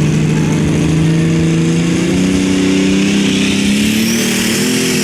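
Turbocharged diesel pulling tractor engine running hard, its revs climbing from about two seconds in and stepping up again near the end. A high whistle rises steeply over the last second and a half.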